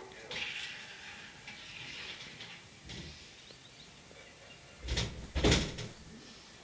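Faint outdoor background, then two loud thumps about half a second apart near the end.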